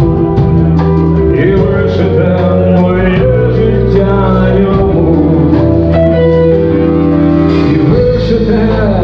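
Loud live rock band music, played steadily through.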